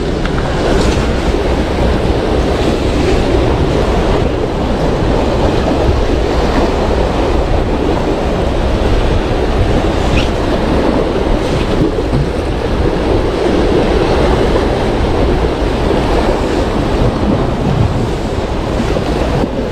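Sea waves washing against shore rocks with wind buffeting the microphone: a loud, steady rush.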